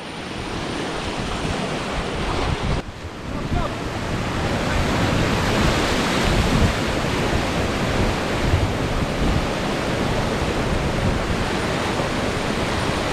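Rushing river water around a paddling raft: a steady rush that builds over the first few seconds and then holds, with wind buffeting the microphone.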